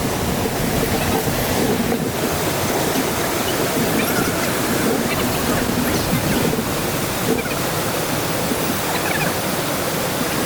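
Waterfall, with water falling and rushing in a steady, even noise.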